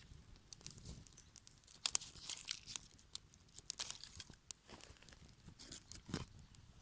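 Dry twigs and kindling of a small campfire making irregular crackles, snaps and crunches, the sharpest snap about two seconds in.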